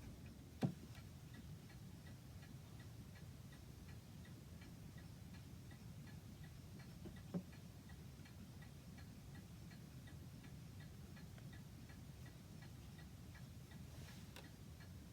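A clock ticking faintly and steadily, with a couple of light knocks, one near the start and one about halfway.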